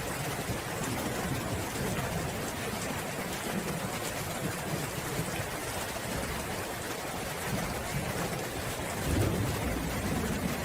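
Steady rain falling, an even hiss, with low rumbles of distant thunder near the start and again swelling near the end.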